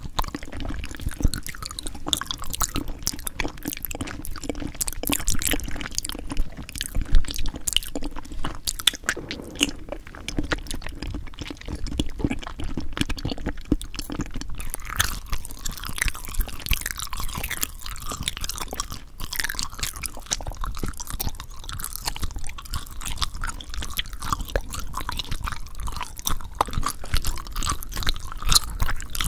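Close-miked ASMR eating sounds: steady crunching and chewing with dense, crackly clicks, changing in texture about halfway through.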